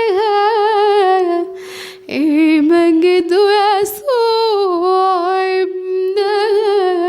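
A woman's voice singing an Arabic hymn to the Virgin Mary unaccompanied, with vibrato and long held notes, pausing briefly twice.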